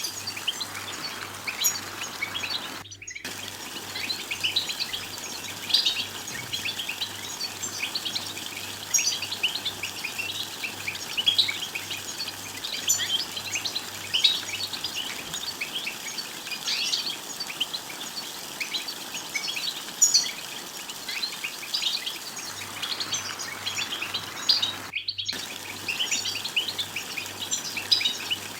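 European goldfinches twittering: a dense, continuous run of quick, high chirps and trills. The sound cuts out for a split second twice, about three seconds in and near the end.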